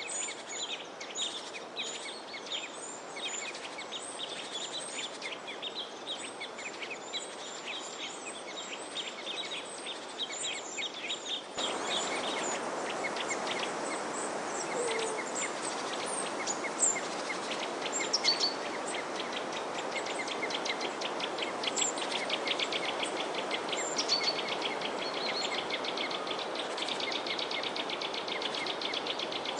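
Many small birds chirping in rapid, repeated short notes over a steady background hiss; about a third of the way in the hiss abruptly becomes louder and the chirping denser.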